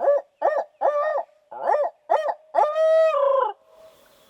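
A series of six barred-owl hoots in the 'who cooks for you, who cooks for you-all' rhythm: five short rising-and-falling notes, then a long drawn-out last note that falls at the end. The hoots are loud and close, as from a turkey hunter's owl locator call given to make a gobbler shock-gobble.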